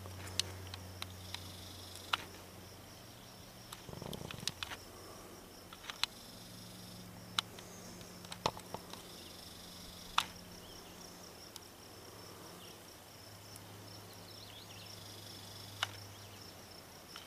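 Steady high-pitched insect chirring in summer meadow grass, with a faint low hum under it and scattered sharp ticks and a brief rustle.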